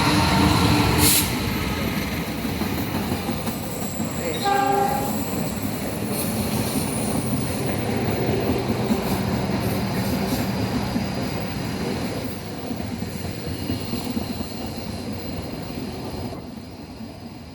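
Indonesian railway train passing close by, its wheels rumbling steadily on the rails. A short horn blast sounds about four and a half seconds in, and the noise fades over the last few seconds.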